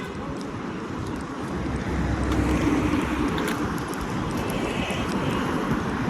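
A motor vehicle passes close by, swelling to its loudest about halfway through, over steady street noise.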